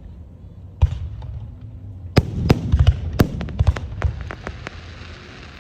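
Aerial fireworks bursting: a string of sharp booms, coming several a second at their thickest from about two to four seconds in, followed by crackling.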